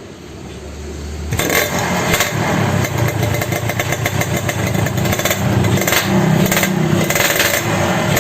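Motorcycle engine starting about a second in, then running loudly with uneven revving and crackle.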